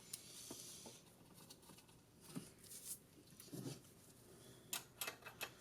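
Faint, scattered metallic clicks and light scrapes of hand tools working the valve rocker adjuster during a valve lash adjustment on a golf cart engine.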